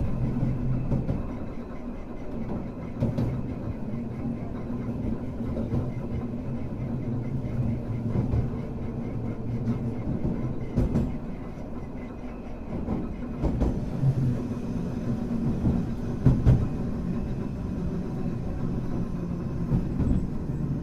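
Hankai Tramway car 351 running along the track, heard on board: a steady rumble of wheels and motor, with a motor hum that fades about a second in and a few sharp knocks from the wheels over rail joints.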